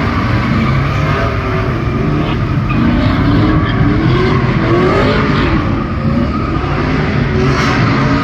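Loud engine revving, its pitch rising and falling repeatedly over a dense noisy din.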